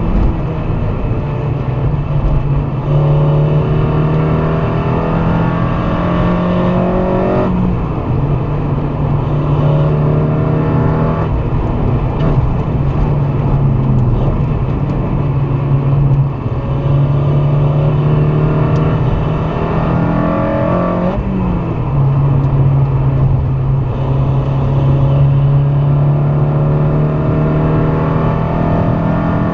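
Swapped-in Honda K24A2 2.4-litre inline-four in a Civic Si being driven hard: the engine note climbs under acceleration, then drops sharply at each of about four gear changes, over steady road and wind noise.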